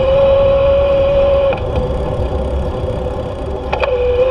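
Electric bike motor whining steadily as it rides. The whine drops back about a second and a half in and picks up again with a click near the end. A low rumble runs underneath.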